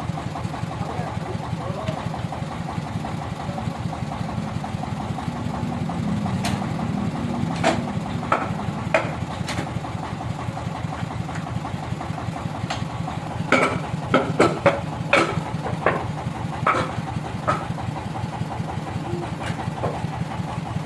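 Sawmill engine idling steadily, with a scattering of sharp knocks and a quick run of them in the second half.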